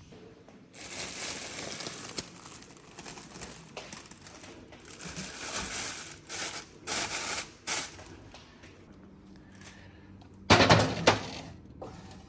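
Food-preparation handling sounds: irregular rustling and clattering of utensils, containers and wrapping, with a loud clatter near the end.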